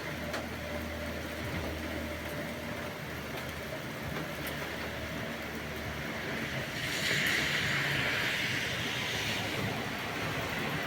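Steady rain falling during a thunderstorm, a continuous hiss that swells louder for a couple of seconds about seven seconds in.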